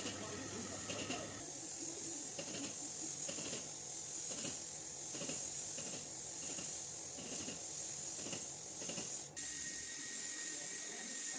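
A steady high hiss of air, with soft knocks repeating about every three-quarters of a second; about nine seconds in the sound changes abruptly to a plainer hiss with a faint thin whistle.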